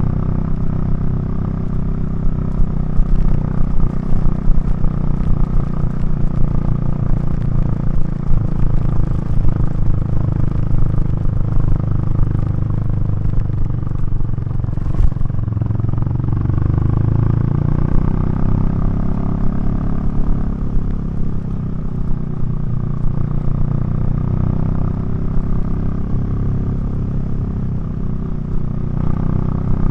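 KTM 390 Duke's single-cylinder engine and Remus exhaust running under way. The revs drop about halfway through, then climb again a few seconds later.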